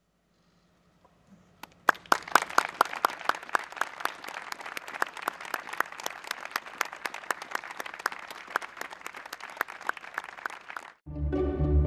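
A group of people applauding: many hand claps that start about two seconds in, carry on steadily and stop abruptly near the end.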